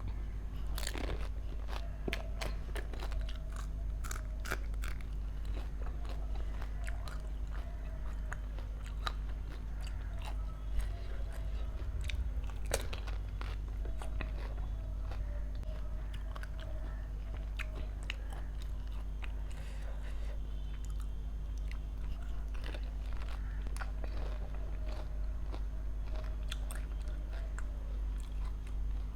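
Golgappa (pani puri) being eaten: the crisp hollow fried puris crack sharply and irregularly as they are bitten, with chewing between bites. A steady low hum runs underneath.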